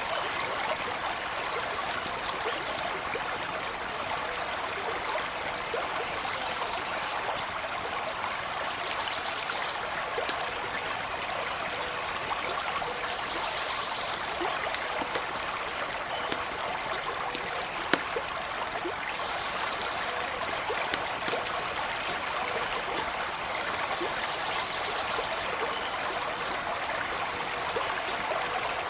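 Small stream running steadily over stones, with a campfire crackling: scattered sharp pops throughout, a few louder ones past the middle.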